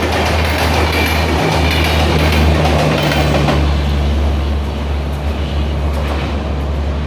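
Express passenger train running through a station at about 100 km/h: a steady low rumble with wheel clatter on the rails, easing a little about halfway.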